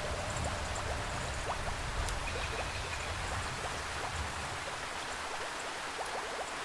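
Steady rainforest rain with many separate drips, over a low rumble of distant thunder that fades out about four seconds in.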